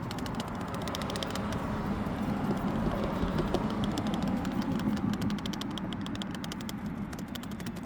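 Dry milk powder and water being mixed in a container: a fast, dense run of small clicks and rattles over a steady rushing noise.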